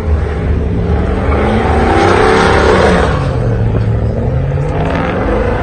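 A truck engine runs loud and revs, its pitch climbing to a peak about two and a half seconds in, then falling away.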